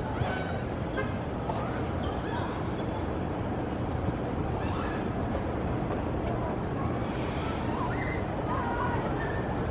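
Outdoor street ambience: a steady wash of traffic noise, with scattered short chirps and distant voices.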